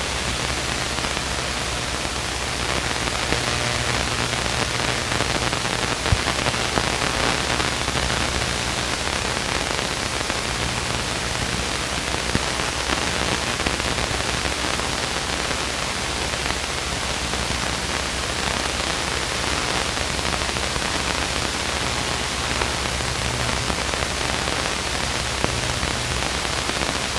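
Steady hiss over a low, even drone: a Luscombe light aircraft's engine in cruise, heard through the cockpit intercom audio.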